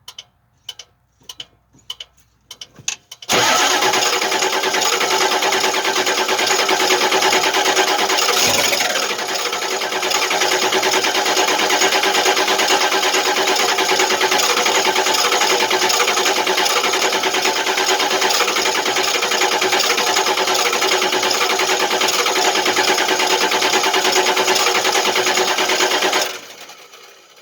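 The 7.3 L IDI diesel of a 1989 Ford F450 cranking on the starter without firing, below freezing, which the owner puts down to weak glow plugs. The cranking begins about three seconds in after a run of sharp clicks, dips briefly about nine seconds in, and cuts off abruptly near the end.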